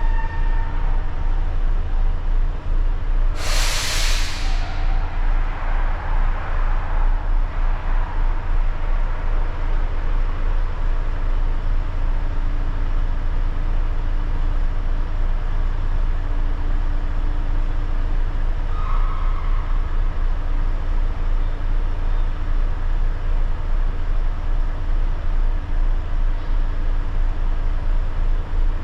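Volvo truck's diesel engine running with a steady low rumble; a little over three seconds in, a loud hiss of released air from the air brakes, lasting about a second and a half.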